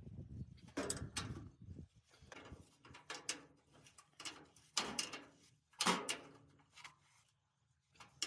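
Irregular sharp knocks and scrapes of metal parts being handled, about eight over several seconds, the loudest two near the middle. A faint steady low hum sets in after the first couple of seconds.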